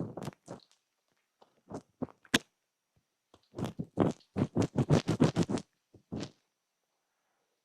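Ear-cleaning ASMR scratching: a few separate scrapes, then a quick run of about eight rubbing strokes, and one last stroke.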